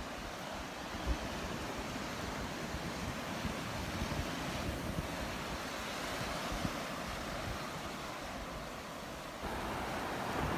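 Surf washing onto a Gulf of Mexico beach, a steady rushing noise, with wind rumbling on the microphone. It gets louder about a second before the end.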